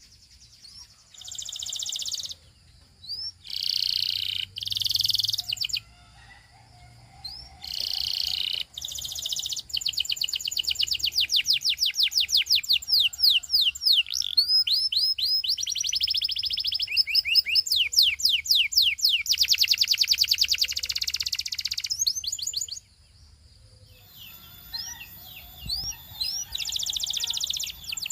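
Canary singing: a few short trilled phrases, then a long unbroken run of rapid repeated notes lasting about twelve seconds, a pause of a few seconds, and the song starting again near the end.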